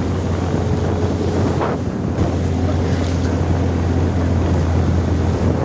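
Wind buffeting the microphone on a moving motorcycle, over the motorcycle engine's steady low hum as it climbs.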